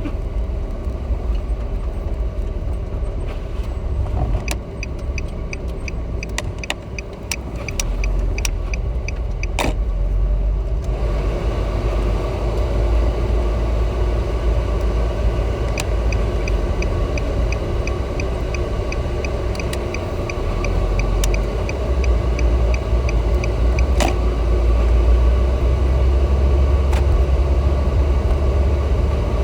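Steady low rumble of road and engine noise inside a moving car's cabin. Twice, for several seconds each time, the turn-signal indicator ticks at an even rate, and a couple of sharp clicks stand out above it.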